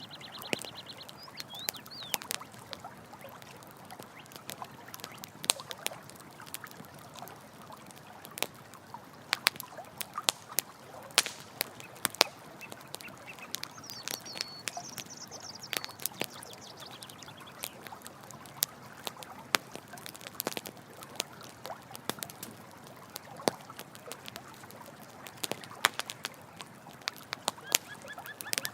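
Campfire crackling, with sharp irregular snaps and pops, over a steady hiss of running water. A brief high animal call sounds about halfway through.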